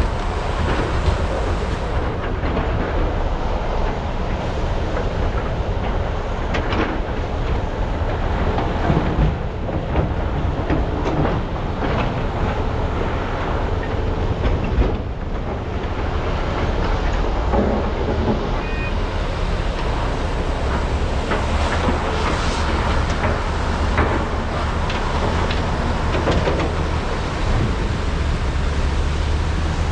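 Large hydraulic excavators (a Komatsu PC395 and SANY SY485Hs) working: diesel engines running with a steady low rumble, broken by scattered short knocks and clanks.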